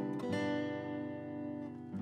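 Background music: acoustic guitar strummed, one chord ringing out and a new strum right at the end.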